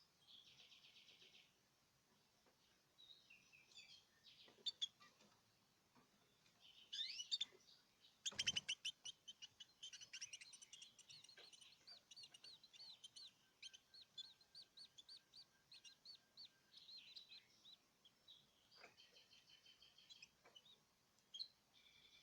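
Canaries chirping and singing faintly in short phrases, with a long run of quickly repeated notes in the middle. A soft knock comes about eight seconds in.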